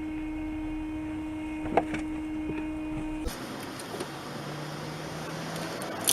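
Car interior sound recorded by a dashcam: a steady hum with a constant tone, which changes abruptly about three seconds in to the broader noise of a car on the move.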